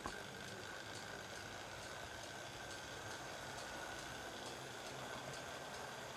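Tender-drive 00 gauge model locomotive with a Ringfield motor running at speed on the track: a steady motor whine with light, regular clicking from the wheels on the rails.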